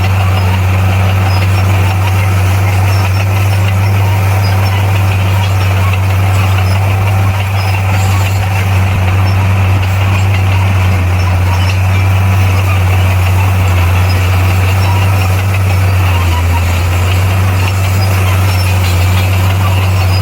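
Crawler bulldozer's diesel engine running steadily, a loud, deep, unchanging drone.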